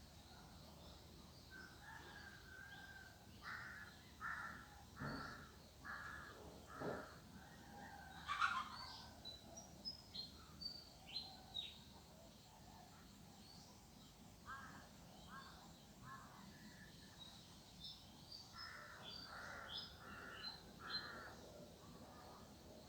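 Crows cawing in three runs of four or five calls each, with small birds chirping higher-pitched in between.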